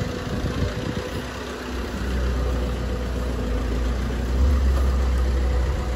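Suzuki Baleno hatchback's engine running at low revs, a steady low rumble that grows louder about two seconds in.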